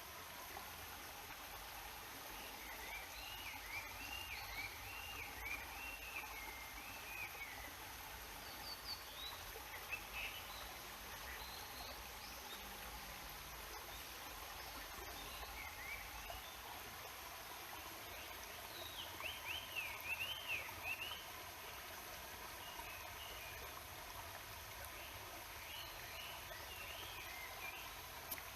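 Steady rush of a waterfall and stream, with a songbird singing wavering, warbling phrases three times and giving a few short calls in between.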